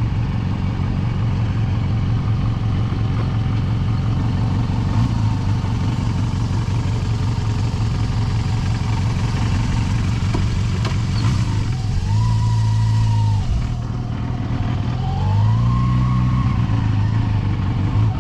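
Yamaha FZR250 (2KR) inline-four engine running steadily under way. It revs up about two-thirds of the way through, drops back, then rises again near the end.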